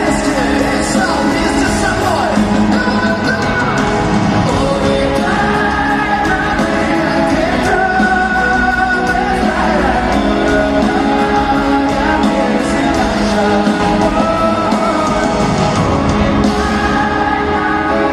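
Live arena concert music: a slow sung melody with held notes over band backing, with a crowd singing along and shouting, echoing in the large hall.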